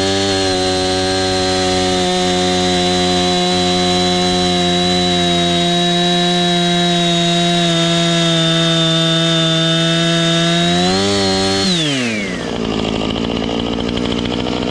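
Husqvarna Rancher 455 two-stroke chainsaw held at full throttle, cutting the felling cut through a pine trunk; its engine note holds steady for about eleven seconds, rises briefly, then drops back to idle near the end.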